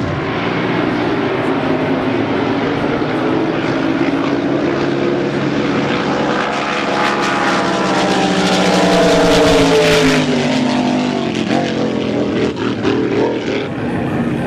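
Drag boat racing engine making a pass: a loud, pitched engine note that climbs in pitch, is loudest about nine to ten seconds in, then drops in pitch and eases off.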